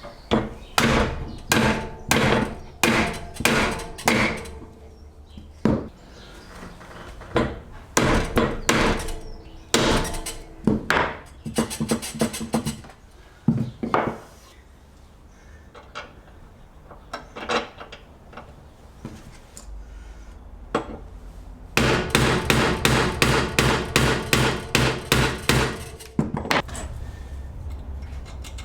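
Hammer blows on metal, struck in irregular runs, each with a short ringing after it; near the end a quick run of about three or four blows a second.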